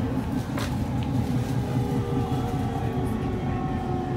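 JR E231 series commuter train, an equipment-renewed car, running and heard from inside the passenger car: a steady low rumble of wheels on rail with faint steady motor tones above it. A brief click about half a second in.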